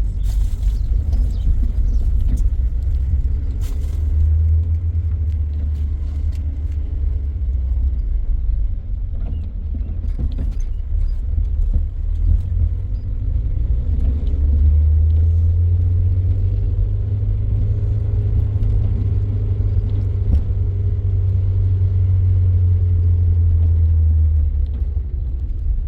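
Steady low rumble of a car on the move, engine and road noise, growing heavier about halfway through and easing just before the end.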